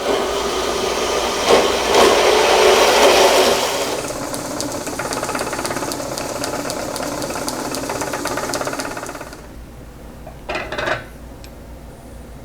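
A metalworking machine starts suddenly and runs under cut, loudest for the first few seconds, then steadier with a fast even ticking. About nine seconds in it drops to a low hum, with a couple of short knocks near the end.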